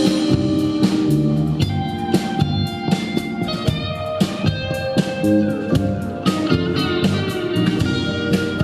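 Live band playing an instrumental break between sung lines: a guitar carries the melody over bass and a steady drum beat.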